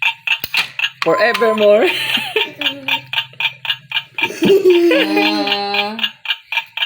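Tapple game's electronic timer ticking rapidly, about four ticks a second, with people talking and laughing over it.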